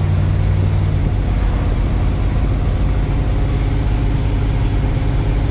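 Truck driving, heard from inside the cab: a steady low engine hum over road and wind noise, the engine note dropping about a second in.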